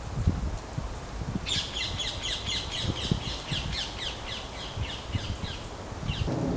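A woodland bird calling in a rapid chattering run of high notes, about six a second, for roughly three seconds from a second and a half in, with a brief second burst near the end.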